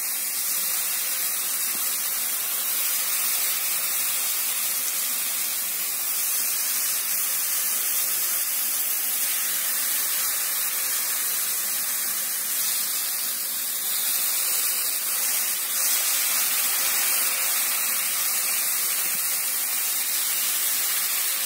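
Masala-coated brinjal (eggplant) slices shallow-frying in a thin layer of hot oil in a flat pan, sizzling steadily.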